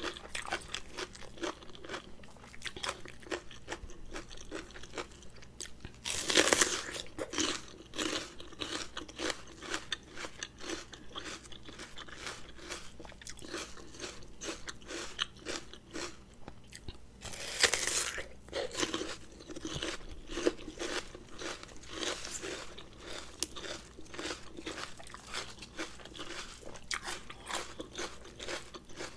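Close-miked eating: a person chewing and crunching mouthfuls of spicy noodle salad with raw vegetables, many small wet crunches. Two louder, longer crunching bites come about 6 seconds and 18 seconds in.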